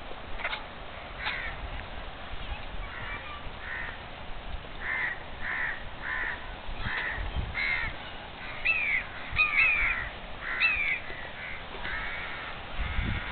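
Birds calling outdoors: a run of short, repeated calls, then several sweeping, rising-and-falling calls in the second half.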